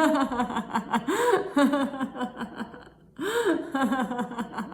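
A woman laughing on purpose in a laughter-yoga exercise: a quick run of short 'ha-ha' pulses, several a second, broken a little past three seconds in by a sharp in-breath before the laughter picks up again.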